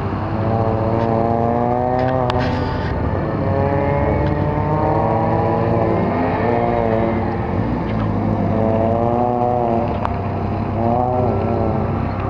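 Volkswagen GTI 16V's four-cylinder engine driven hard through an autocross course, its pitch climbing under throttle and dropping off again several times in quick succession as the car accelerates between cones and brakes or shifts.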